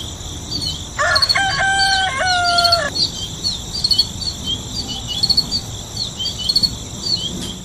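Small birds chirping over and over, with a rooster crowing once, about a second in, in a call that lasts about two seconds. A steady high insect buzz runs underneath.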